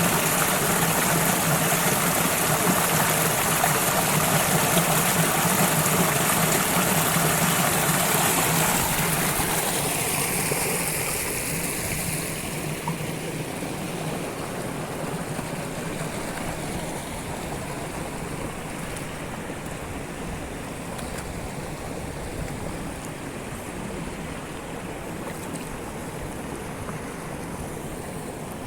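Rushing water of a waterfall, a steady noise with no rhythm. It drops in level and loses much of its hiss between about ten and thirteen seconds in, then stays steady at the lower level.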